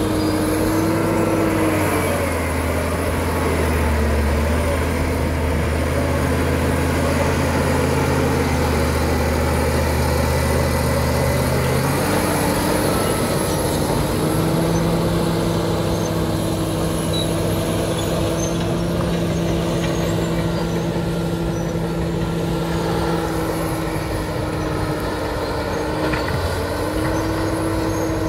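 Caterpillar D7 bulldozer's diesel engine running steadily under work. Its pitch shifts about twelve seconds in and dips briefly near the end.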